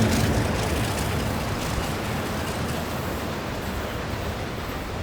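A train rumbling away into the distance, its noise fading slowly and steadily.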